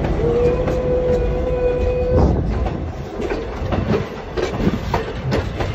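Passenger train running slowly, with a steady low rumble of the wheels and irregular clacks over the rail joints. A steady whine holds for about two seconds at the start.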